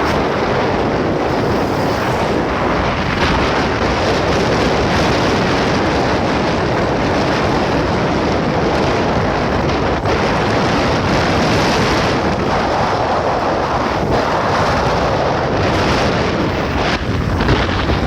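Loud, steady rushing of wind on the microphone, with no distinct bird calls.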